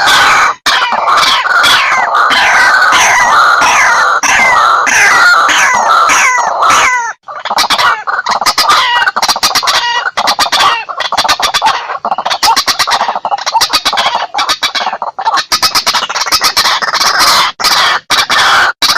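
White-breasted waterhen calls played as a hunter's lure: a loud run of repeated falling squawks, then from about seven seconds a fast series of clicking croaks, and falling squawks again near the end.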